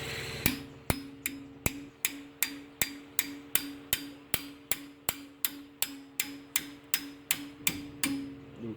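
Hammer tapping a bent engine pushrod to straighten it: about twenty even, sharp strikes at roughly two and a half a second, over a faint steady hum.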